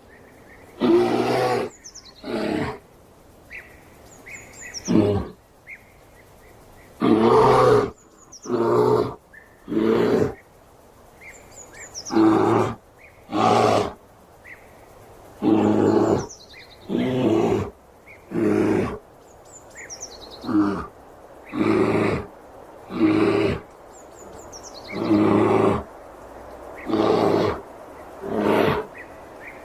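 A bear calling again and again: about twenty short, deep calls, each under a second long and spaced a second or two apart. Birds chirp faintly in the gaps.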